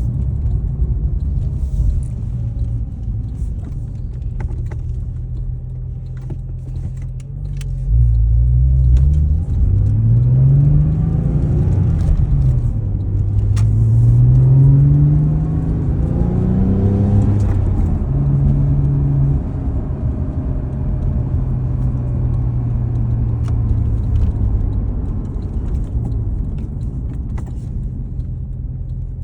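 Porsche 996 flat-six engine idling steadily, then its speed rising and falling several times about a third of the way in before it settles back to an even idle.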